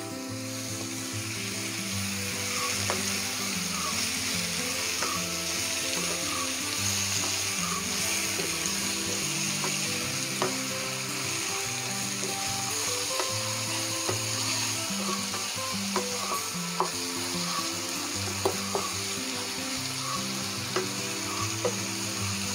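Marinated chicken pieces sizzling steadily in hot sunflower oil with browned onions in a frying pan as they are stirred, with a few sharp spatula knocks against the pan. Soft background music plays underneath.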